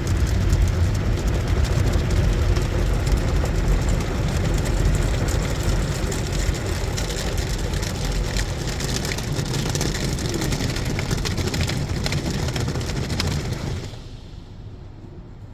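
Ryko SoftGloss Maxx 5 automatic car wash spraying water onto the car: a loud, steady hiss and patter of water with a low rumble, which drops away sharply about fourteen seconds in.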